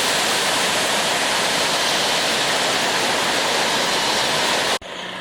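Waterfall, a steady close rush of falling water, cut off abruptly near the end.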